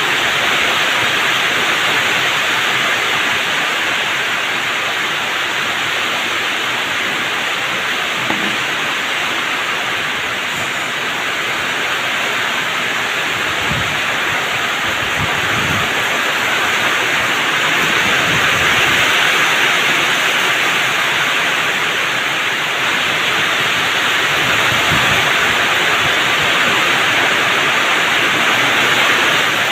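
Heavy rain pouring down in a strong wind: a loud, steady hiss, with a few low gusts of wind rumbling under it.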